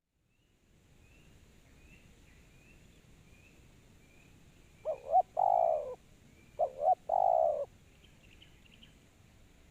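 Spotted dove (tekukur) cooing: two calls about five and seven seconds in, each a short note followed by a longer one. A faint, high chirping of a small bird repeats through the first half.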